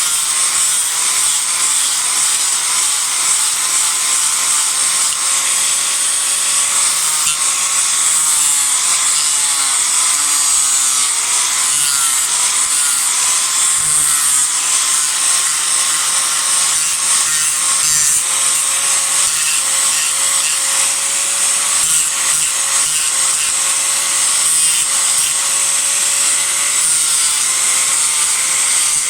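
Disc grinder running without a break, cutting into a cedar offcut to rough out a carving. Its steady whine dips slightly in pitch now and then as the disc bites into the wood.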